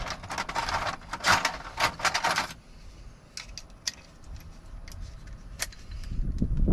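Metal keys jangling and rattling for about two and a half seconds, then scattered small metallic clicks from handling lock hardware.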